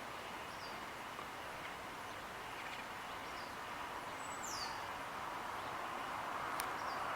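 Quiet outdoor ambience: a steady background hiss, growing slightly louder toward the end, with a few faint, short, high bird chirps, one a quick falling chirp about four and a half seconds in, and a single light click near the end.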